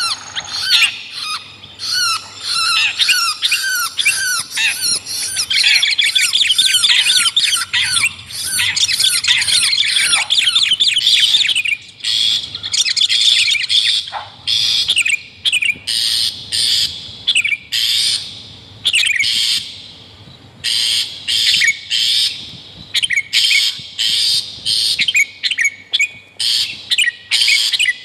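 Bird-lure recording of long-tailed shrike and sooty-headed bulbul calls: a dense run of rapid, harsh, high-pitched notes for the first twelve seconds or so, then short bursts of calls about once a second.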